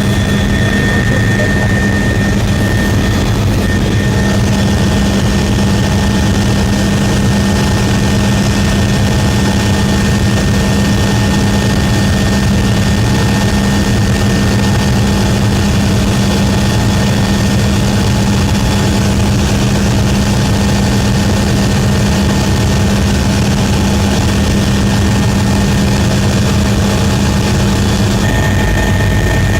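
Aircraft engine drone, running steadily: a constant low hum with a thin high whine above it.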